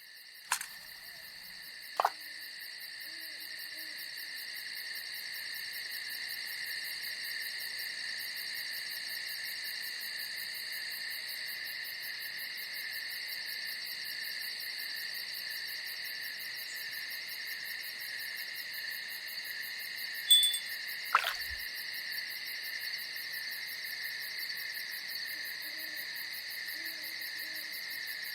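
Steady high-pitched chorus of night-singing insects such as crickets, fading in over the first few seconds, with a few faint low hoots of an owl. Four sharp clicks or knocks stand out: two near the start and a close pair about two-thirds of the way through.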